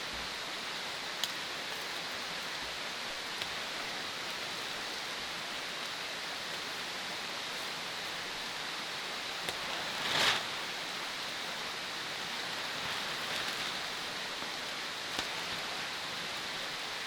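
Steady rush of water, with a few faint ticks and a brief louder swish about ten seconds in.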